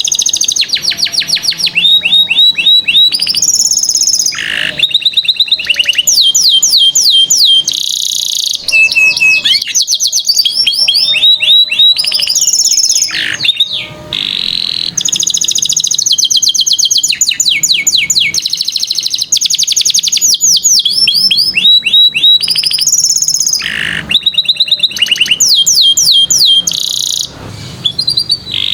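Domestic canary singing continuously: long runs of fast trills, rapidly repeated notes that sweep up or down, alternating with held high whistled notes, with only brief pauses between phrases.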